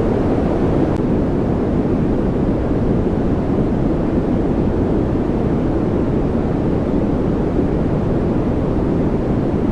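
Continuous white-noise track: a steady, unchanging rushing noise, deep in tone with little hiss at the top.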